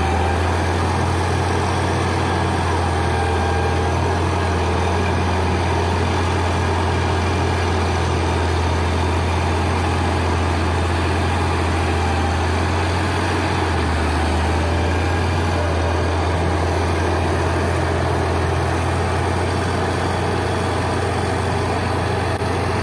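Heavy diesel engine running steadily at low revs, a deep, even drone that shifts slightly lower in pitch for a few seconds about halfway through.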